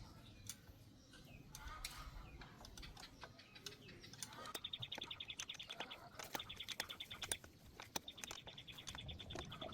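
Faint bird trills: rapid high-pitched pulses in bursts of about a second, repeating from about halfway in, over scattered light clicks and taps.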